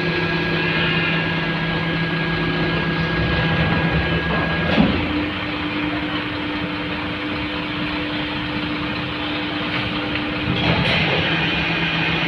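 Heavy diesel engines running with a steady drone. There is a short knock about five seconds in, where the held engine note shifts pitch; it shifts back near eleven seconds.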